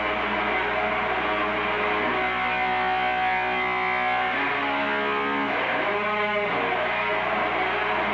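Electric guitar music, held notes with sliding pitch bends about two thirds of the way through.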